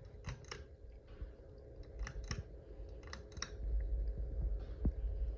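Three sharp double clicks about a second apart, typical of a ceiling fan's switch being worked, over a faint steady hum; a low rumble builds near the end.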